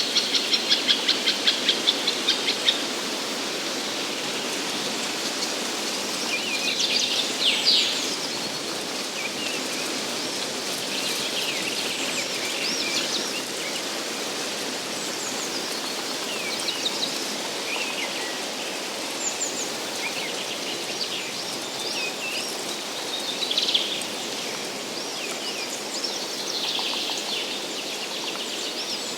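Wild songbirds calling in a forest. It opens with a fast, evenly repeated high call at about four notes a second that stops after about three seconds. Scattered high chirps and short phrases follow over a steady rushing background.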